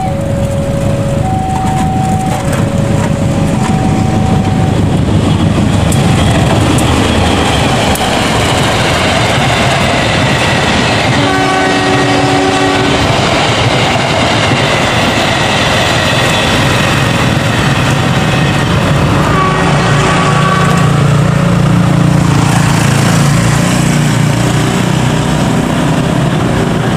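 Diesel-hauled passenger train passing close by: steady rumble and clatter of the coaches' wheels on the rails, with a multi-note horn blast about eleven seconds in and a shorter horn around twenty seconds. An alternating two-tone warning signal sounds in the first few seconds, and a deeper engine rumble builds near the end.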